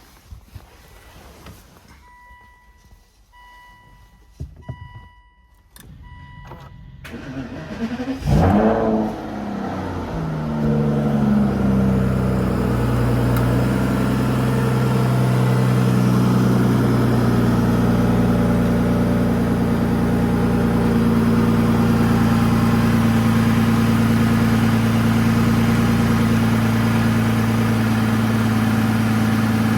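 2010 Aston Martin DBS's V12 cold start: a beep repeating about once a second, then the starter cranks, the engine catches with a loud rev flare about eight seconds in and settles into a steady fast cold idle.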